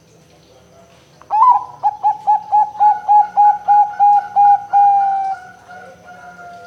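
Zebra dove (perkutut) cooing: a sharp rising opening note about a second in, then a quick run of about a dozen short, evenly spaced coos, around three a second. It ends in one longer drawn-out coo that slides slightly lower and fades.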